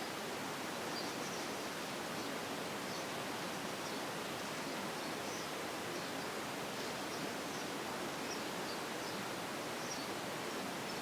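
Steady hiss of background noise, with faint short high chirps scattered throughout.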